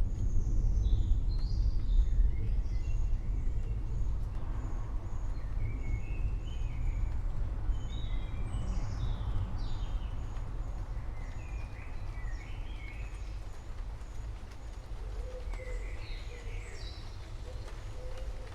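Low rumble of thunder rolling away, loudest at the start and slowly fading, while songbirds chirp and call throughout.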